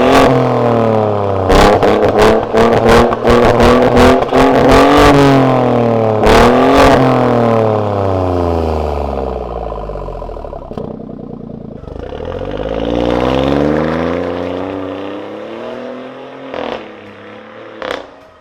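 BMW F23 2 Series Cabrio with a remote-controlled Varex valved exhaust, its engine revved in repeated quick blips, the pitch rising and falling, with sharp cracks on several of the rev drops. About halfway through it settles, then makes one slower rev up and back down before the sound fades away.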